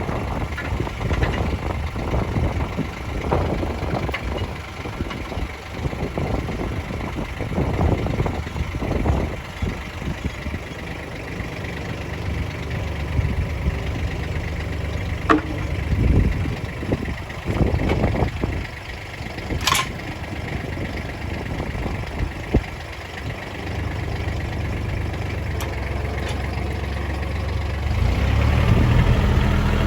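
Tractor engine running steadily, with scattered knocks and clanks and a sharp click partway through; the engine gets louder near the end.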